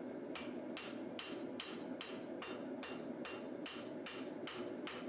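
Hand hammer striking a hot high-carbon steel katana blade on an anvil, hammering out the cutting-edge bevel in a steady rhythm of about two and a half ringing blows a second. The blows start about a third of a second in, over a steady low rush.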